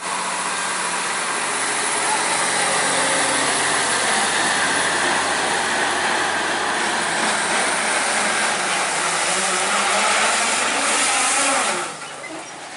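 Heavy truck engine running under load amid loud road noise, cutting off abruptly near the end.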